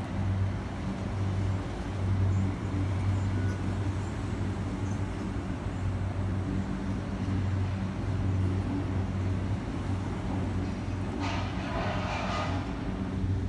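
Steady low hum of electric trains at a railway station, with a short hissing burst near the end.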